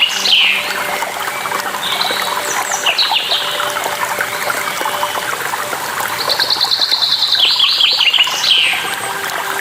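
A songbird singing over running water. Its phrase is a fast run of high notes that falls to a few lower notes at the end; it is heard right at the start and again from about six seconds in, with shorter calls between two and three seconds. Under it, water splashes and trickles without a break.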